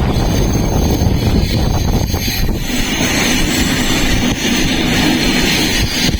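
Passenger train running on the rails, a steady loud rumble and rush of air, with wind buffeting the microphone.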